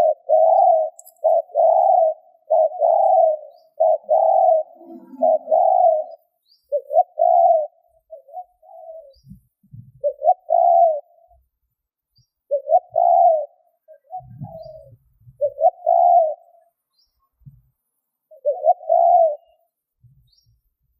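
Spotted dove cooing in repeated short notes: a quick run of them for about the first six seconds, then spaced groups of coos. A few faint low knocks sound under the later coos.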